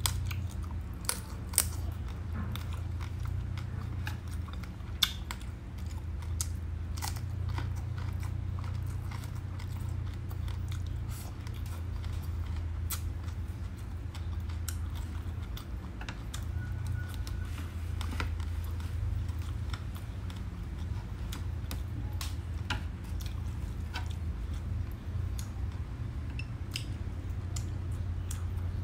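Close-miked chewing and biting of crispy roast pork and winged beans: many sharp, crunchy crackles at irregular moments over a steady low hum.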